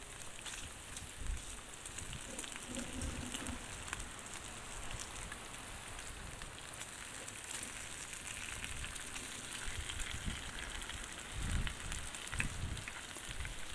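Bacon, sausage patties and hash browns frying on a Blackstone flat-top gas griddle: a steady crackling sizzle. A few soft low thumps come near the end.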